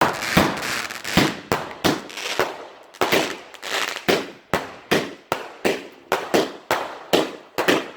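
A rapid string of firework bangs, about two to three a second with a short gap near the third second, each fading out in a brief hiss.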